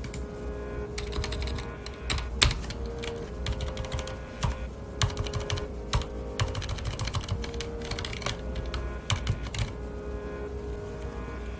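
Typing on a mechanical keyboard with red (linear) switches: irregular runs of keystrokes, with a louder stroke about two and a half seconds in.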